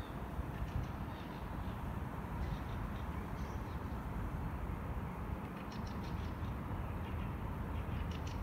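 Small birds chirping faintly in short clusters of high notes, a few times, over a steady low background rumble.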